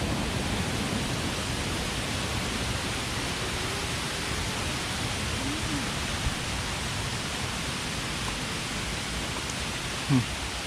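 Steady rushing of water falling down a waterfall close by.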